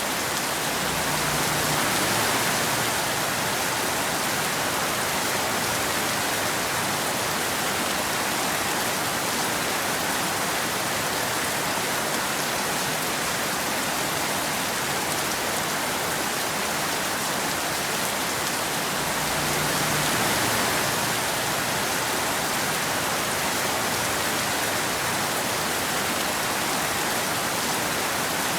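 Steady rain falling, an even hiss with no thunder, swelling slightly twice.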